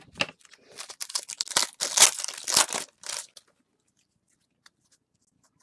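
A trading-card pack wrapper being torn open and crinkled: a quick run of ripping and crackling for about two and a half seconds, which then stops.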